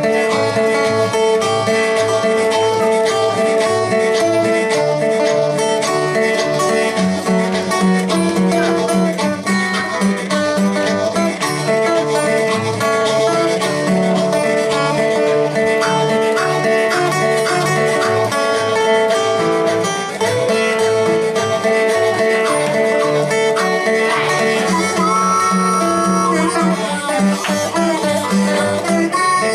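Live blues band playing an instrumental passage with harmonica, without vocals.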